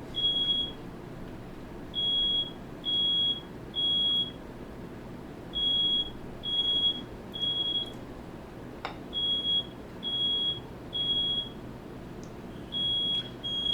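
Smoke alarm going off, set off by smoke from a firework let off indoors. It gives short, high-pitched beeps in groups of three, with a pause between each group.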